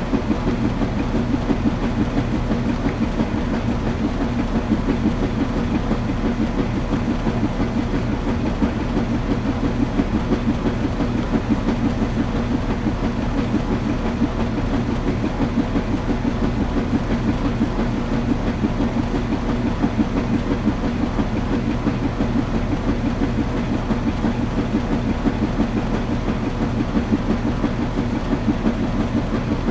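Washing machine running: a steady mechanical hum with a fast, even rumbling flutter that does not change.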